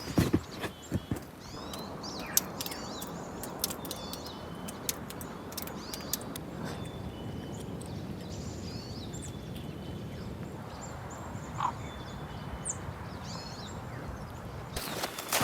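Small birds chirping and calling in short, scattered phrases over a steady, even rushing background.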